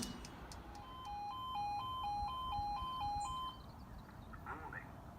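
Level crossing warning alarm sounding faintly, a two-tone signal that alternates between two pitches about twice a second, starting about a second in and stopping after about three seconds.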